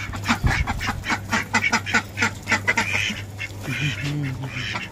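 A flock of domestic turkeys calling: a fast, dense run of short calls for the first few seconds, thinning out to scattered calls near the end.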